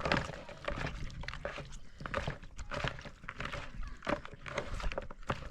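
Raw chicken pieces being mixed by hand with curry powder, turmeric and salt in a bowl: a run of irregular short wet slaps and knocks.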